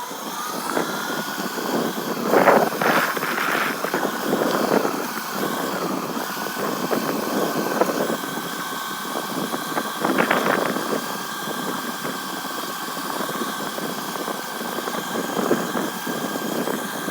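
Motorcycle running while being ridden: a steady whine that rises in pitch as it pulls away and then holds. There are louder rushes of noise about two and a half to three and a half seconds in and again around ten seconds.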